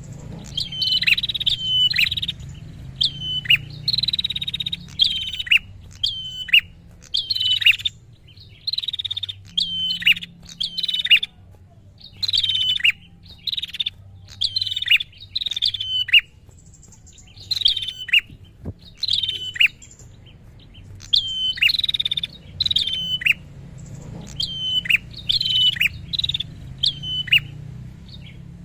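Prinia (prenjak) calling: a long run of sharp chirps, each sliding down in pitch at its end, about one to two a second with a few short pauses.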